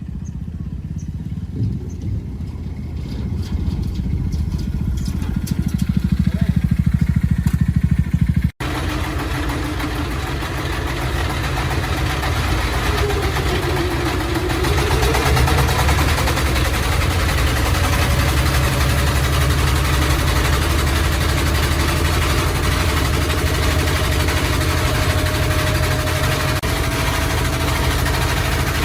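An engine running steadily at a low pitch. About eight and a half seconds in, the sound breaks off abruptly and comes back louder and noisier, with the engine still running and a faint tone that dips and then rises.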